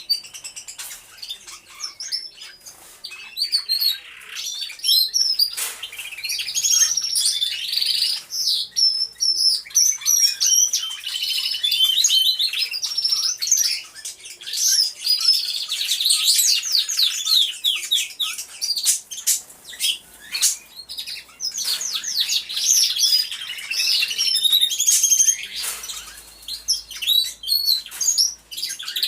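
Many canaries singing together, a dense overlapping chorus of rapid high trills, rolls and chirps with hardly a pause.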